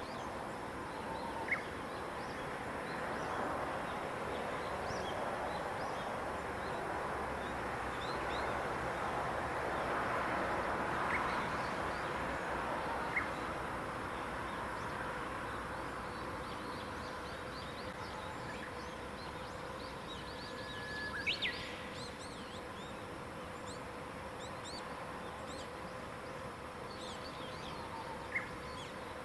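Morning birdsong: scattered short chirps and twitters from several small birds over a steady outdoor hiss that swells around the middle. A louder, sharper call comes about two-thirds of the way in, and a faint steady hum runs underneath.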